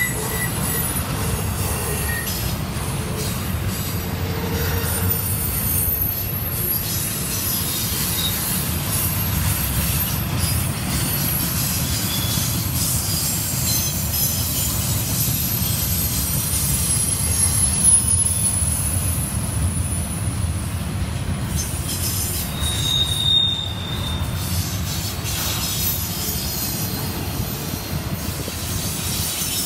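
Double-stack intermodal freight train rolling past: a steady low rumble of well-car wheels on the rails, with thin high-pitched wheel squeals coming and going and one sharper squeal about three-quarters of the way through.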